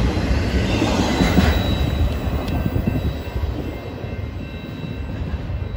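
Intermodal freight train's flatcars rolling past on the rails, a heavy rumble of wheels with scattered knocks, fading as the end of the train goes by.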